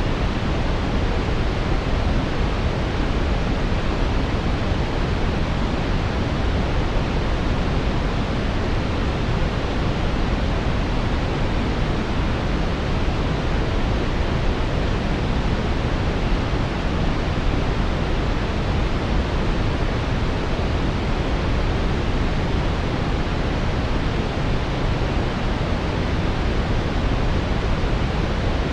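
Brown noise: a steady, deep, even hiss that is strongest in the low end and never changes.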